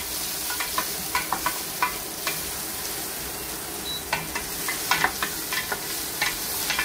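Onions, garlic and ginger sizzling in hot oil in a stainless steel pot, stirred with a wooden spoon that knocks and scrapes against the pot in short, irregular clicks over a steady sizzle.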